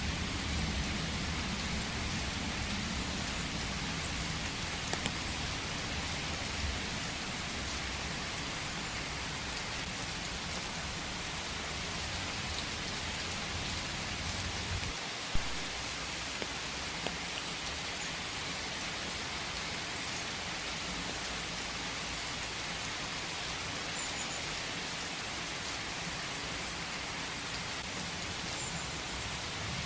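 Steady rain falling, a dense even patter of drops. A low rumble underneath stops abruptly about halfway through, marked by one sharp tick.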